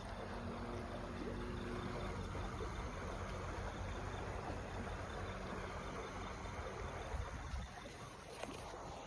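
Steady outdoor background noise of creek water flowing, with a low rumble underneath.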